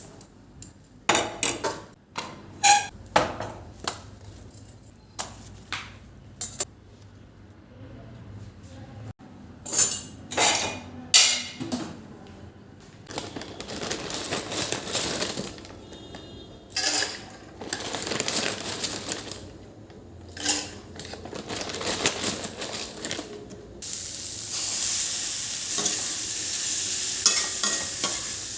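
Cookware and utensils clattering and knocking, then food frying in a pan with a sizzling hiss and occasional stirring knocks; the sizzle turns suddenly louder near the end and stays steady.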